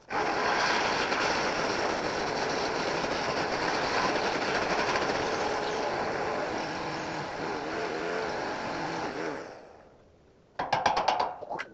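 A motor-driven machine running steadily, which fades out about nine and a half seconds in; a quick rattle of sharp clicks follows near the end.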